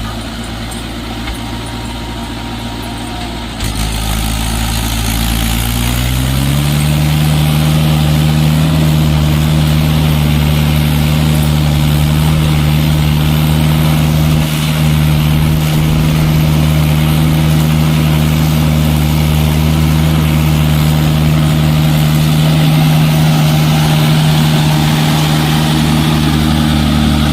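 Tractor diesel engine running steadily; a few seconds in it gets louder and its pitch rises as it speeds up, then it holds steady at the higher speed.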